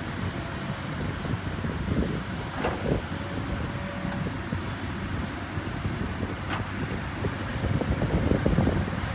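Heavy construction machinery's diesel engine running steadily with a low rumble, with a few short metallic clanks.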